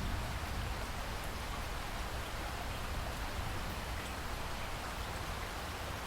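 Steady rain falling in a rainforest, an even hiss of rain on foliage with scattered drop ticks and a low rumble underneath.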